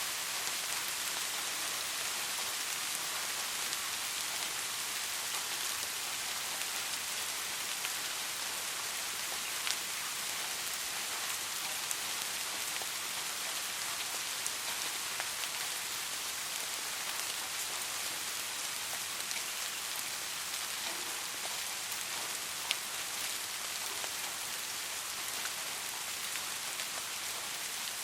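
Soft, steady rain falling, an even hiss with scattered individual drops ticking through it.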